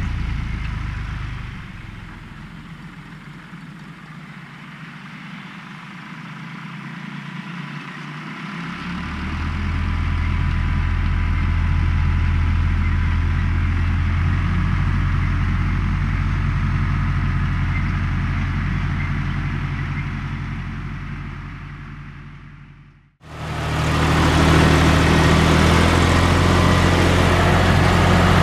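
John Deere 1030's three-cylinder diesel tractor engine running steadily while working a hay tedder. It is quieter for several seconds early on, then louder. Near the end it fades out sharply and comes straight back louder, as at a cut in the video.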